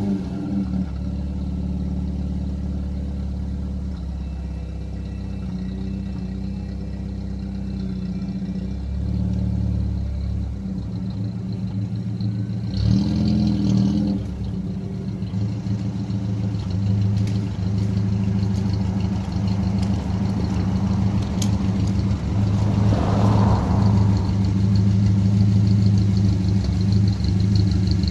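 A 1951 Ford Prefect's side-valve four-cylinder engine runs steadily at low revs as the car reverses slowly, getting louder as it comes closer. About halfway through there is a brief louder burst of noise.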